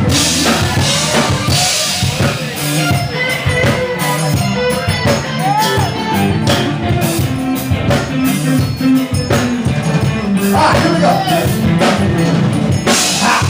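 Band playing an instrumental intro, drum kit and bass driving a steady beat, with guitar over them.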